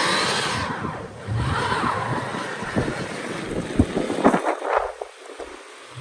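Car engine revving twice while its wheels spin in deep snow, a sign the car is still stuck; wind then buffets the microphone.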